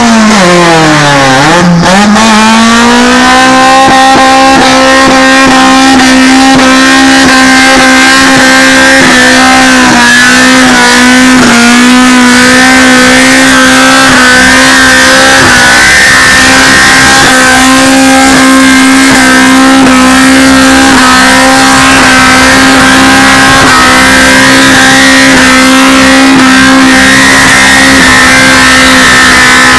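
Honda car engine held at high revs during a tyre burnout, with the drive wheels spinning against the ground. The pitch dips briefly about a second in, then climbs back and holds loud and nearly steady.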